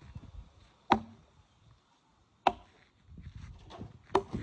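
Firewood being chopped with a blade: three sharp strikes into wood, spaced about a second and a half apart.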